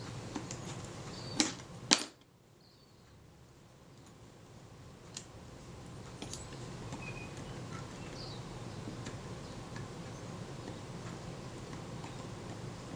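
Two sharp clicks about half a second apart from small metal parts of a Kodak Retina IIIc camera body being worked by hand, its cocking-rack gear not meshing cleanly. Then a faint steady hum with a few light ticks.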